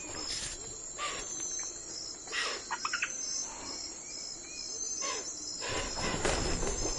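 Outdoor morning ambience: insects trilling in a steady, evenly pulsed rhythm, with short bird chirps scattered through it. A low rumble builds near the end.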